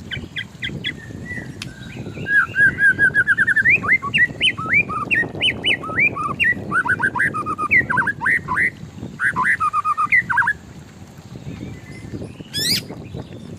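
White-rumped shama singing a varied song of clear whistled notes that slide up and down, including a fast run of repeated notes. The song stops about ten seconds in, leaving one short sharp note near the end.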